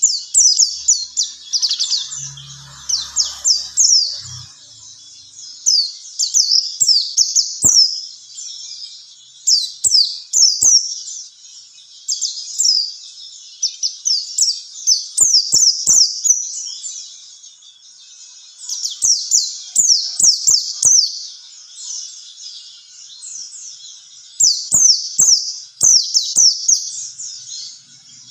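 Pleci (white-eye) songbird singing a fast, high twittering song in repeated bursts of rapid chirps, with short pauses between the phrases.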